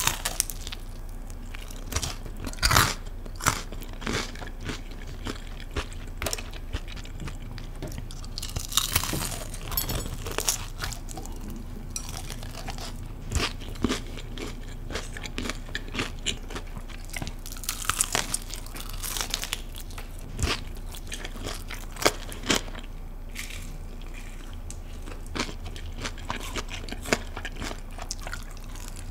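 Close-miked crunching and chewing of crispy honey-glazed fried chicken (Kyochon Honey Combo). Crisp bites crackle throughout, with denser crunchy stretches.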